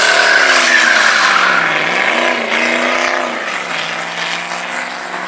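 Chevy pickup truck doing a burnout: tires squealing over the engine at high revs, the squeal fading within the first second or so. The engine revs drop, rise once more around two seconds in, then fall back to a steady idle near the end.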